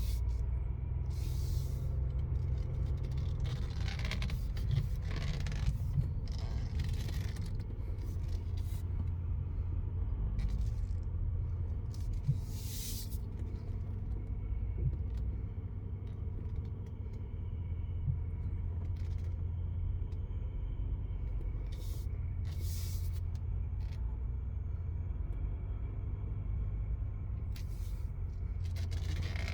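Low, steady rumble of a Chevrolet Duramax 6.6-litre V8 turbodiesel running as the truck is driven, with a few brief hissing sounds on top.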